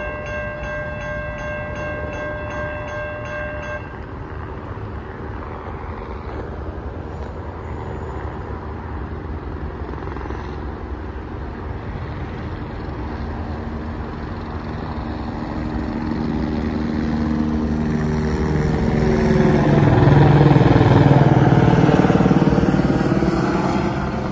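Amtrak passenger train approaching, growing louder, with its horn sounding as several tones together that swell near the end. A steady high ringing stops about four seconds in.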